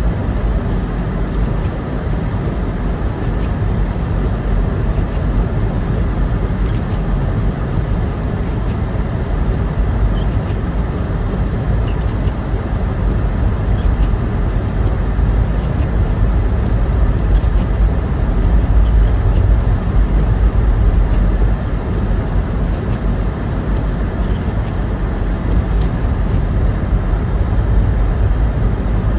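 A car being driven: a steady rumble of engine and road noise that holds even throughout.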